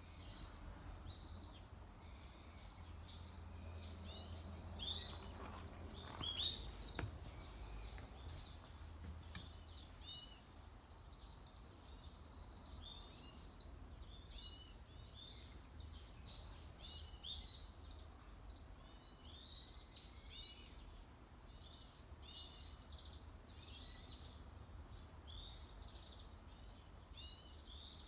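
Small birds chirping, a steady run of short high calls that keeps going throughout, over a faint low rumble.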